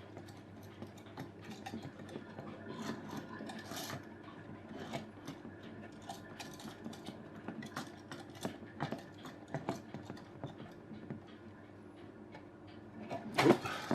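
Light clicking and rubbing from the plastic parts of a 3D-printed rubber band car being handled and wound. A loud clatter comes near the end as the car sets off early.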